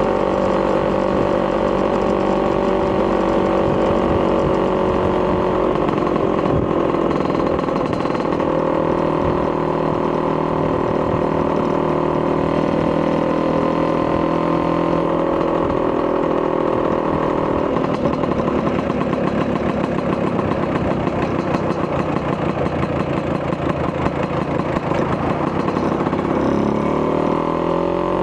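Vespa PX200's single-cylinder two-stroke engine, bored to 210cc with a Polini kit, running through a Malossi expansion-chamber exhaust. The note holds steady for the first few seconds, then shifts with the throttle, and rises near the end.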